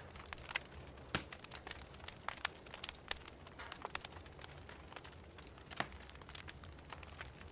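Wood fire crackling in a fireplace: irregular sharp pops and snaps over a low steady hiss, with a louder pop about a second in and another near six seconds.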